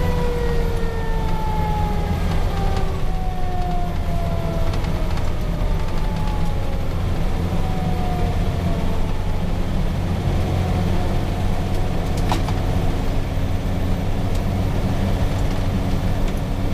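Fire engine's Cummins 6CTA 8.3 turbo diesel running steadily, heard from inside the cab. Over it a siren tone slowly falls in pitch and fades away by about halfway through. A short click comes near the end.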